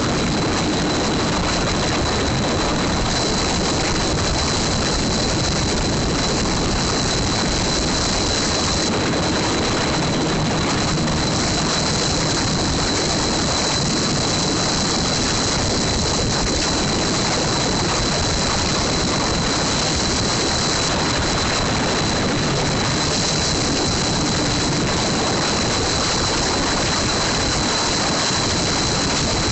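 Motorcycle engine running under a steady rush of wind noise on the microphone, with no change in level throughout.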